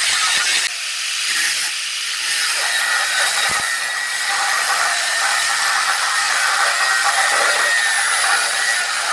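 A power tool cutting during stove fabrication: a steady, loud hissing cut with a faint high whine, no breaks.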